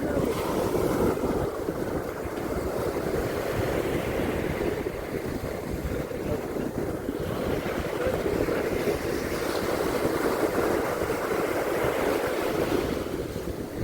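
Ocean surf washing onto a beach as a steady rushing noise that swells and eases over several seconds, with wind buffeting the microphone.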